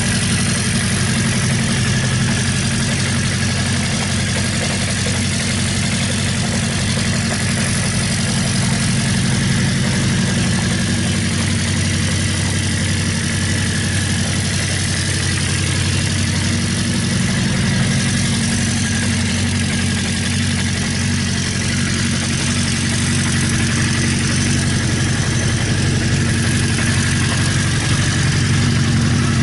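Honda CB400F's air-cooled 408cc inline-four idling steadily through an aftermarket exhaust.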